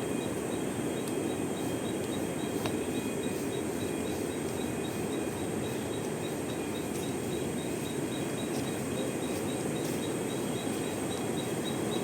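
Outdoor ambience: a steady low rushing noise with insects chirping, one high chirp pulsing about three times a second.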